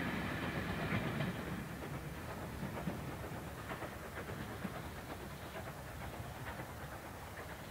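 Steam train receding along the line, the coaches' wheels clicking over the rail joints as the sound fades steadily away.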